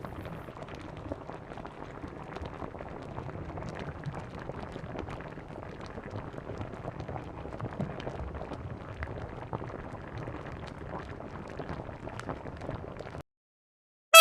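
Campfire burning: wood crackling with frequent small pops over a soft steady hiss, stopping abruptly near the end.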